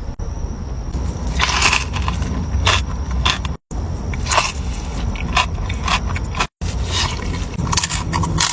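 Close-miked eating: crunching, biting and chewing with sharp crackling clicks, cut off twice by brief silent breaks.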